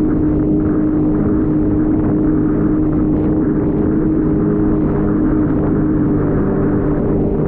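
Jet ski engine running steadily under way, its engine note holding an even pitch over a dense rush of noise.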